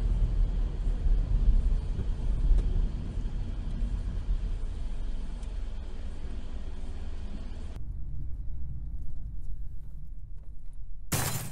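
Road traffic recorded from a moving vehicle: a heavy low rumble of road and wind noise, then a quieter stretch of traffic sound. Near the end comes a sudden loud burst of noise lasting about half a second.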